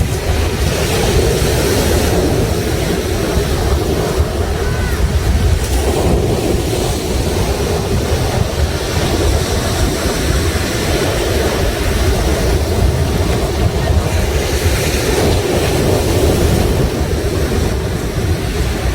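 Sea waves washing on the shore in a steady, continuous surge, with a heavy low rumble of wind buffeting the microphone.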